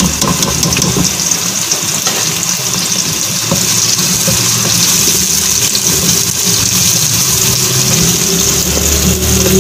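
Sliced onions tipped into hot oil in a cooking pot and sizzling as they are stirred with a spatula, the hiss growing stronger a few seconds in. A steady low hum runs underneath.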